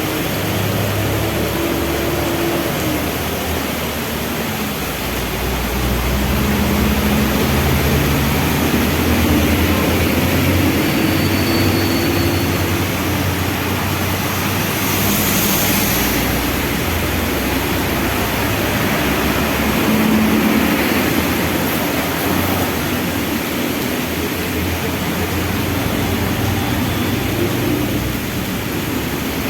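Steady heavy rain with motor vehicle engines running in the traffic around it, their low hum shifting in pitch as the vehicles idle and pull away. A brief hiss about halfway through.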